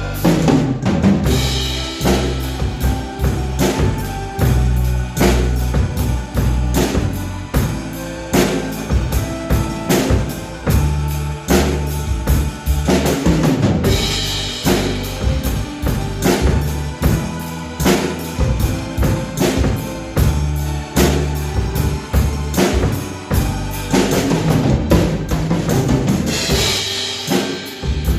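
Acoustic drum kit played along to a recorded song: a steady beat of bass drum and snare over the backing music, with brighter crashes about a second in, near the middle and near the end.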